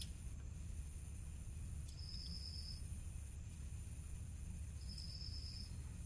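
Faint low hum, with a high, thin tone of just under a second that repeats about every three seconds.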